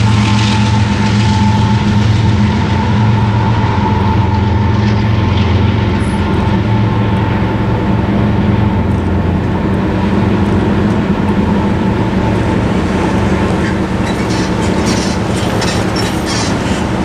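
CSX intermodal freight train rolling away behind a GE ES44AH diesel locomotive. The low engine rumble drops off about six seconds in, leaving the steady rumble of the cars running on the rails.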